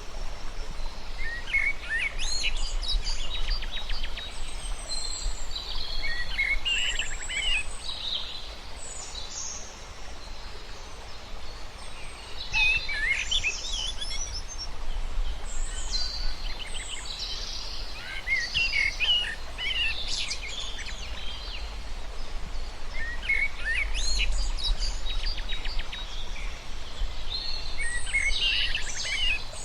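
Several small birds singing and chirping in quick, twittering phrases that come in bunches with short lulls between, over a steady low background rumble.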